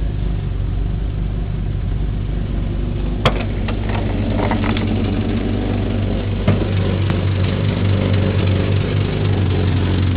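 Subaru XT6's 2.7-litre flat-six engine idling steadily, still not warmed up. A sharp click about three seconds in, then a few lighter clicks.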